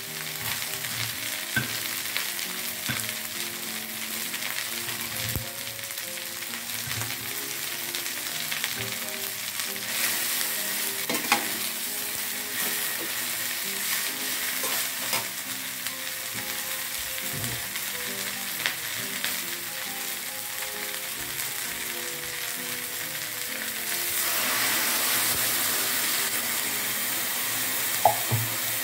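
Cassava leaves, tempeh and spice paste sizzling in a hot stainless-steel wok while being stirred with a metal spatula, with a few sharp clinks of the utensil against the pan. The sizzle grows louder about four-fifths of the way through.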